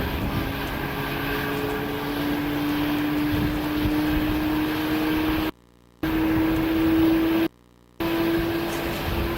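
Jet airliner's engines running, a steady whine that rises slowly in pitch over a low rumble. The sound drops out abruptly for about half a second twice in the second half.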